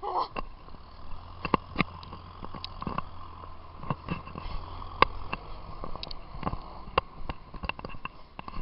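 A runner's breathing during a run, with irregular knocks and thumps from the jostled handheld camera and a short falling breath right at the start.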